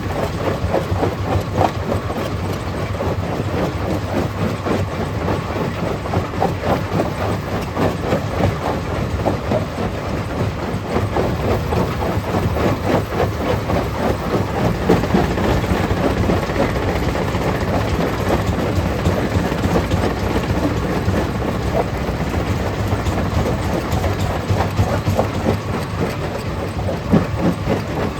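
Stone crusher running and crushing rock: a dense, steady clatter of stones knocking and grinding over a low machine hum.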